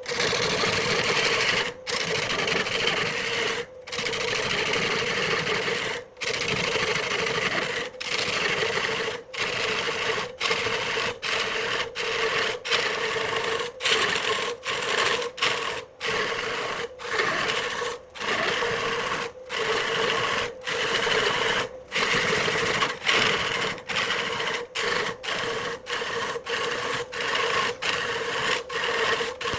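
Wood lathe running with a steady motor hum while a tool works the spinning wood, making a continuous hissing scrape. The sound is chopped by many short, sudden silences that come closer together toward the end.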